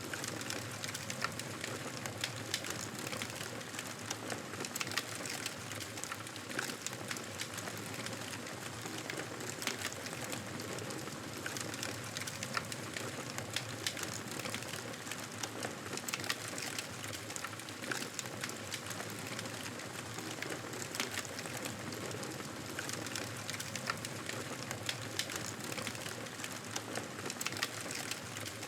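Wood fire crackling over a steady hiss, with many small, irregular pops.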